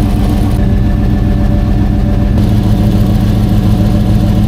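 Chevy/GMC Suburban engine idling steadily, heard close to its catless exhaust, with exhaust escaping at a flange joint that still leaks slightly despite a fresh gasket; the owner suspects a warped flange face.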